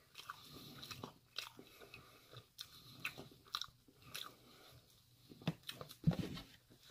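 Close-up chewing of battered fried ginger chicken in sauce: many short, irregular wet mouth clicks, with one louder short mouth sound about six seconds in.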